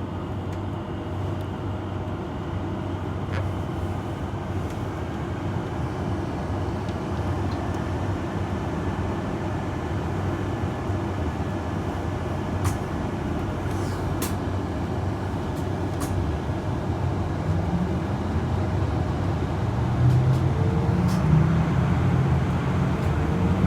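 A vehicle running with a steady low rumble and hum. Its engine pitch rises and it grows somewhat louder near the end, as if pulling away or speeding up. A few faint ticks sound along the way.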